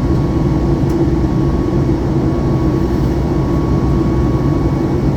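Aircraft cabin noise during the climb after takeoff: the engines and rushing air make a steady, deep drone, with a faint thin tone running through it.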